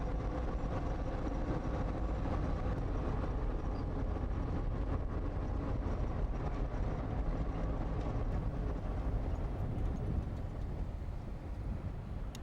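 Cummins 220 naturally aspirated six-cylinder diesel in a 1954 Kenworth tractor, running steadily as the truck drives along. It gets a little quieter over the last couple of seconds.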